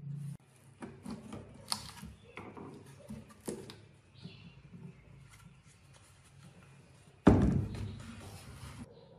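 Hand work in a workshop: scattered knocks, clicks and rubbing of tools and parts, with one loud thump about seven seconds in that rings on for about a second.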